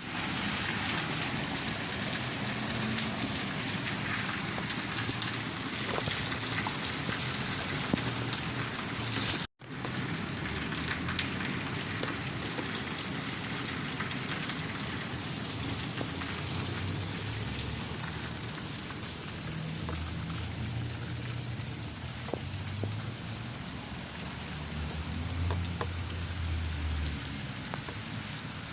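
Steady rain falling on pavement, an even hiss with no pauses except one instant dropout about ten seconds in.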